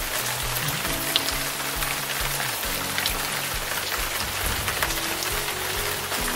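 Steady rain falling, a dense even hiss with scattered sharp drip ticks, under soft background music of slow, held low notes.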